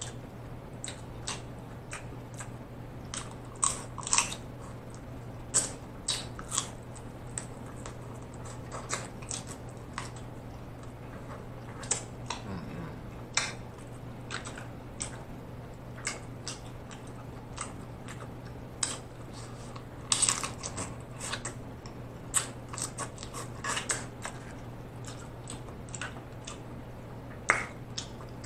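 Close-miked mouth sounds of a person chewing seafood-boil food: irregular smacks and clicks of lips and tongue, in little clusters with pauses between, over a faint steady low hum.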